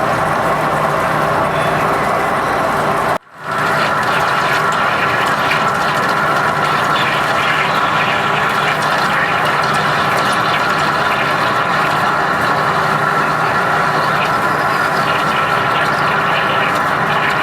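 Metal lathe turning a large workpiece, with steady machining noise and a steady high tone. The sound drops out suddenly for a moment about three seconds in, then carries on.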